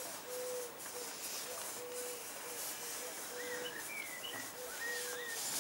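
Birds chirping in the background: a short low note repeating about two or three times a second, with a few quick rising and falling chirps in the second half.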